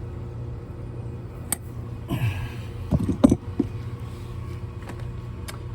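A steady low machine hum runs underneath a few sharp clicks and knocks, from hand-tightening a metal pipe-strap clamp on a copper water pipe. There is a brief louder scrape-and-knock cluster about two to three seconds in.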